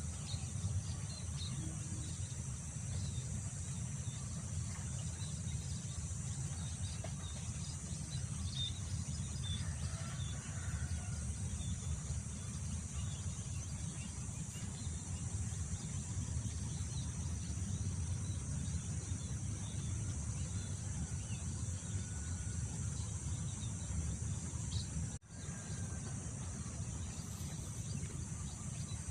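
Wind rumbling steadily on the microphone under a continuous high chorus of insects, with a few faint scattered bird chirps. The sound cuts out for a moment near the end.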